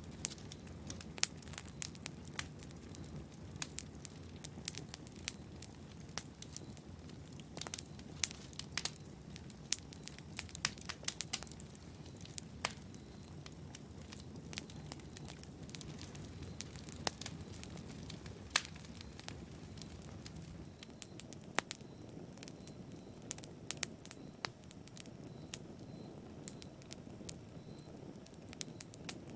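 Wood fire burning in a fireplace, with a low steady rumble of flames and frequent sharp, irregular crackles and pops.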